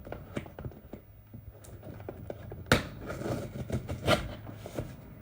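A makeshift tool scraping and tapping at a cardboard box to cut it open, with scattered small clicks and two sharper knocks, about three and four seconds in.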